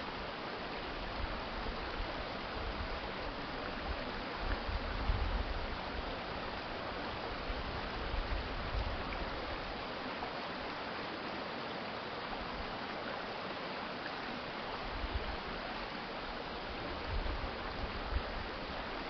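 Urban stream water flowing steadily, with low rumbles swelling and fading several times.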